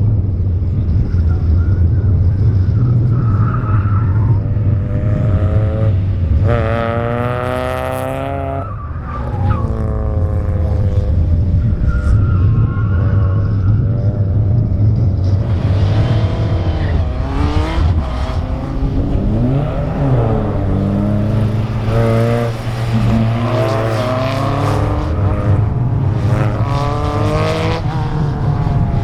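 Lola T342 racing car driven hard through an autocross course: the engine runs steadily low with changes in revs. The tyres squeal again and again in stretches, which happens as they near the limit of grip.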